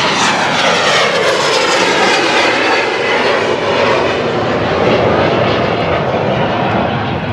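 Jet airliner passing close by, its engines loud and steady, with a phasing whoosh that sweeps down and back up in pitch as it goes past, easing slightly near the end.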